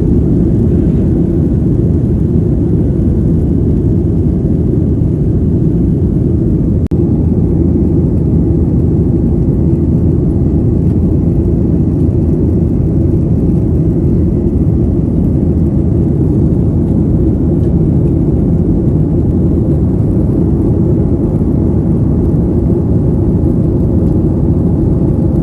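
Steady low roar of a jet airliner heard inside the passenger cabin, engine and airflow noise in flight, with a single click about seven seconds in.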